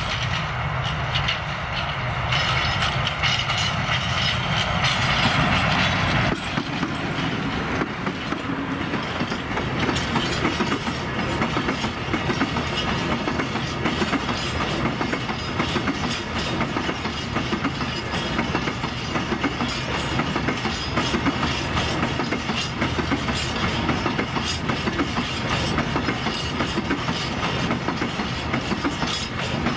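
An electric locomotive passes close by, loudest in the first six seconds, then a long freight train of open wagons rolls past, its wheels clattering over the rail joints in a steady rhythm.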